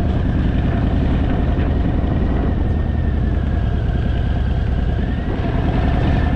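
Harley-Davidson Fat Boy's V-twin engine running steadily under way, heard from the rider's position, with a brief easing of level a little after five seconds in.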